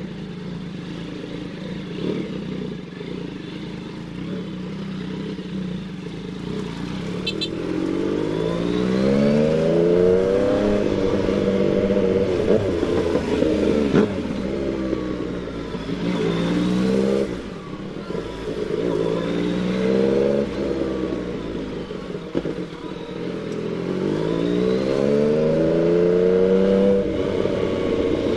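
Yamaha MT-09 motorcycle's inline-three engine running at low revs, then climbing in pitch and dropping back several times as the bike pulls away and accelerates.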